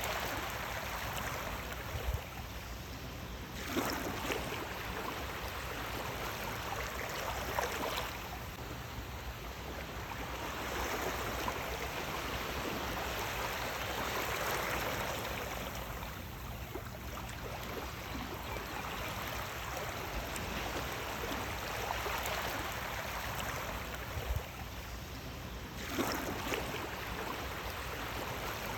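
Sea waves washing in: a continuous rush of water that swells and ebbs every few seconds, with a few sharper breaks as waves hit.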